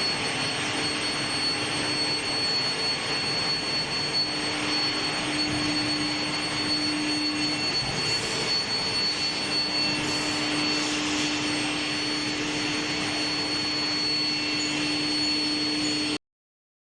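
Steel bar induction heat treatment line running: a steady loud industrial noise with a constant high-pitched whine and a lower hum, which cuts off abruptly near the end.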